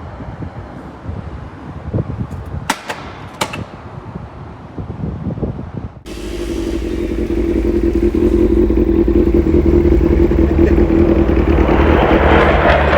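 Vehicle noise: an uneven rumble with two sharp clicks, then, after an abrupt cut, a steady engine drone that grows louder toward the end.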